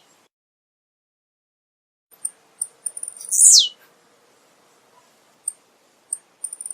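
Male blue-black grassquit (tiziu) singing: after two seconds of silence, a few short high ticks lead into one loud, very high note that sweeps steeply downward, about halfway through. More scattered ticks follow near the end.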